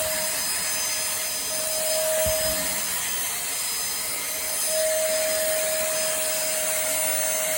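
Pemacom cordless handheld vacuum running steadily with its carpet brush tool on carpet: a constant airy hiss with a motor whine that fades in and out. A brief low thump about two seconds in.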